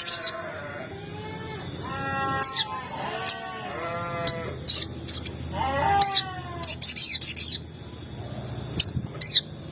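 Sogon bird calls: short, sharp, high chirps scattered through, mixed with lower, wavering calls at a few points, over a faint steady hum.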